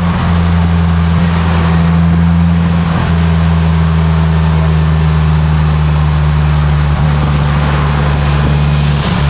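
2022 Polaris Slingshot's four-cylinder engine running steadily at road speed, with wind and rain rushing over the open cockpit.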